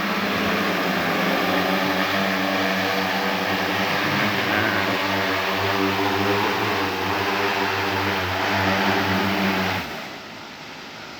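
Agricultural crop-spraying drone's rotors buzzing steadily in flight, a layered hum that wavers slightly in pitch, then drops away sharply near the end.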